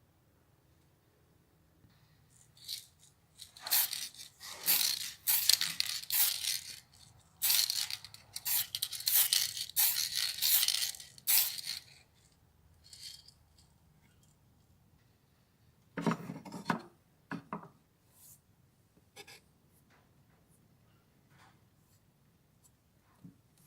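Irregular bursts of scraping and rubbing, in one long spell and a shorter one later, with a few faint clicks in between and after.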